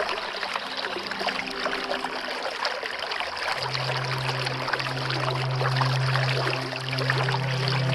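Water flowing and trickling in a stream, a dense steady babble. About three and a half seconds in, a low steady tone comes in beneath it.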